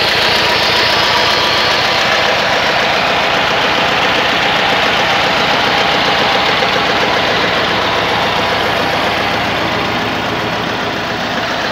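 Deutz F2L912 two-cylinder air-cooled diesel engine of a home-built tractor, running steadily with a fast, even beat.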